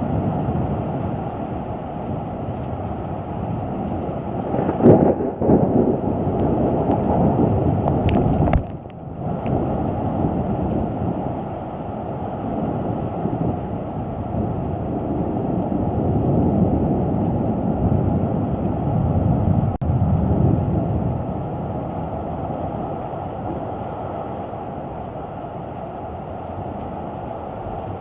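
Thunder rumbling low and continuously during a severe thunderstorm, swelling and fading, with a sharper crack about five seconds in and a brief break near nine seconds.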